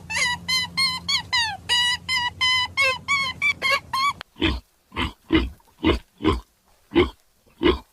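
Quick, high, pitch-bending chirping calls from an animal, cut off about four seconds in. A pig then grunts in a steady rhythm of about two grunts a second.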